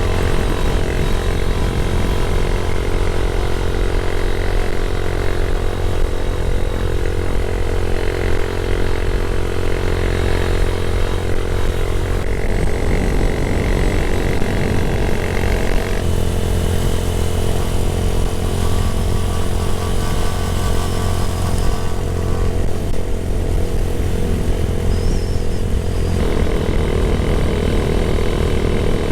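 Motorcycle engine running steadily while riding on the road, with its note shifting a few times as speed changes.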